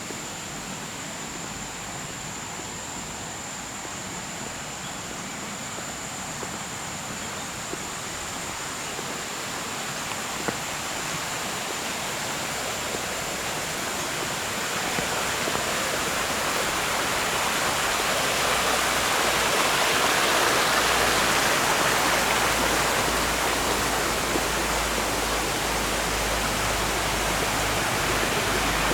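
Flowing water rushing over rocks in a shallow stream, a steady wash that swells louder about halfway through and stays loud.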